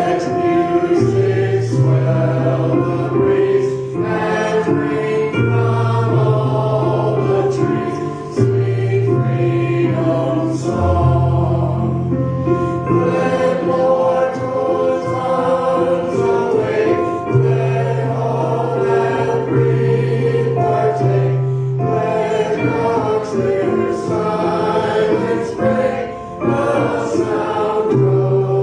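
Church choir singing a gospel song with instrumental accompaniment and a sustained bass line.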